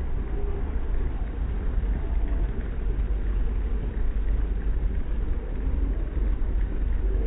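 Dodge Challenger's engine running at low speed as the car creeps forward. It gives a steady deep rumble with no revving.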